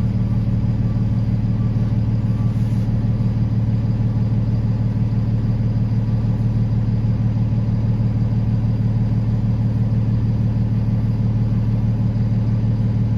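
Steady low drone of a moving road vehicle, unchanging in pitch and level throughout.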